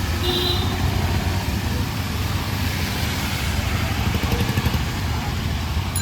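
Street traffic: motor vehicle engines running steadily, with a brief high tone shortly after the start.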